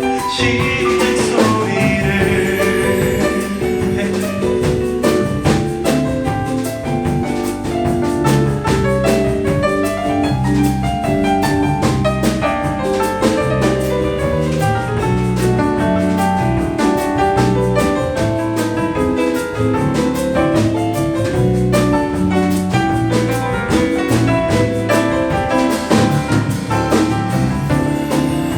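Live band playing an instrumental break in a song, with drums keeping a steady beat under pitched instruments and no singing.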